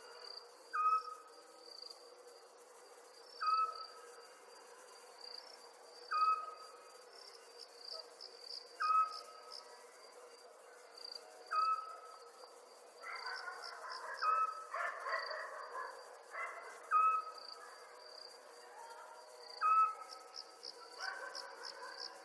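Night chorus of crickets chirping in quick pulses. Over them a short piping call repeats about every three seconds, and a few seconds of busier calling comes twice.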